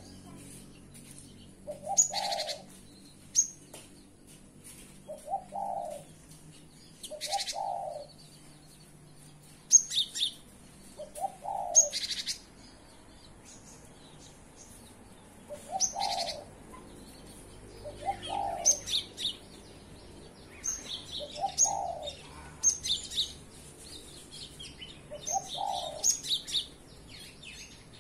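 Cinereous tit (gelatik batu) singing: clusters of sharp, high, whistled notes, often in pairs, repeated every second or two. A short, lower note sounds in between every two to four seconds.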